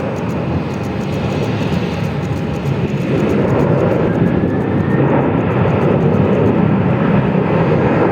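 Jet engines of a Boeing 777-200 airliner running loudly, a dense rushing noise that grows louder about three seconds in, with a faint rising whine over the top a little later.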